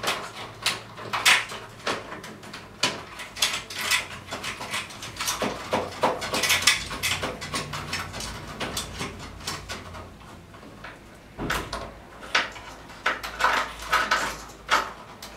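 Irregular clicks, taps and rustling of electrical cable and small parts being handled and worked into an inverter's wiring terminals, with a quieter moment about two-thirds of the way through.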